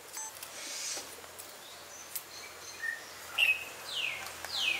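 Small birds chirping: a handful of quick, downward-sliding chirps in the second half. Faint sharp clicks of a cleaver working on garlic cloves come in between.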